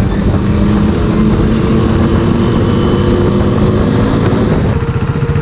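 Motorcycle engine running under way, then settling to a steadier, lower idle near the end.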